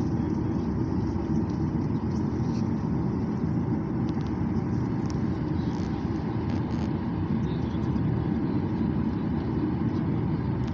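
Airplane engines running steadily on the runway: an even low rumble with a faint steady whine above it.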